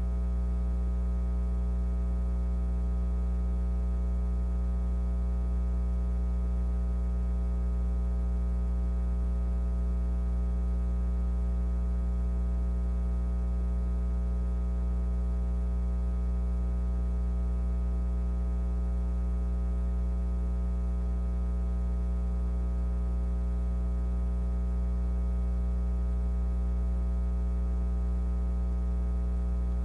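Steady electrical mains hum: a strong low tone with a stack of evenly spaced overtones, unchanging in pitch and level.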